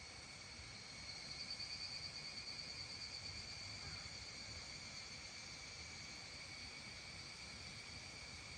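Steady evening chorus of calling insects: an unbroken high trill with a faint low background rumble. It grows a little louder and pulses for a few seconds after about a second in.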